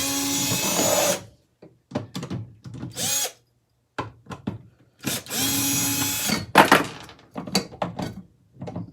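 Handheld power drill running in three short bursts, the longest about a second and a half, to take screws out of ceiling fan parts. Clicks and knocks of metal parts being handled come between the bursts and after the last one.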